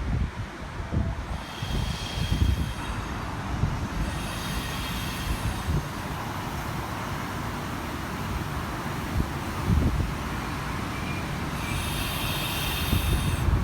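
Sydney Trains V-set double-deck electric intercity train moving at the platform: a steady rumble of wheels on rail, with a high whine that swells twice.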